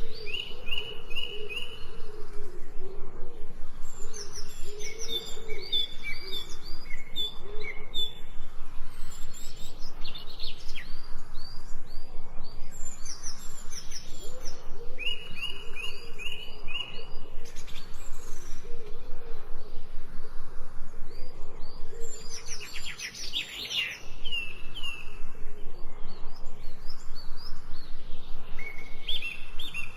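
Several birds singing: repeated series of short, high chirps and whistled notes from different birds, with lower, softer calls underneath and a fast trill about three-quarters of the way in.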